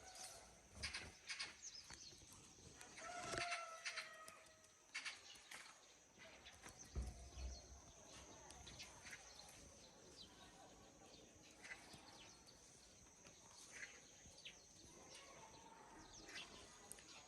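Faint scattered taps and clicks of a Eurasian jay pecking at and handling bean pods, with a faint drawn-out call about three seconds in.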